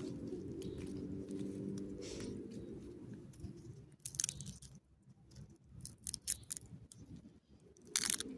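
Roasted pine nuts (pinhões) being bitten and chewed: a few sharp crunches from about four seconds in, the loudest near the end. Before that a steady motor hum from a passing vehicle fades away.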